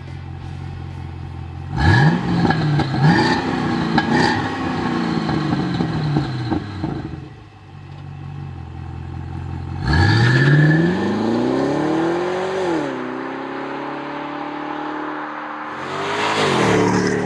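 2014 Chevrolet SS sedan's 6.2 L V8 running through a Flowmaster Force II cat-back exhaust with 60 Series Delta Flow mufflers. It idles, then revs in several quick blips about two seconds in and settles back. About ten seconds in it gives a longer rev that climbs and drops, runs steadily at a higher pitch, and revs briefly once more near the end.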